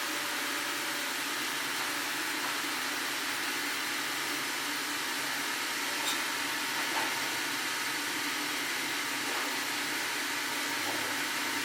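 Sawmill machinery running with a steady whirring noise, with a couple of light knocks about halfway through.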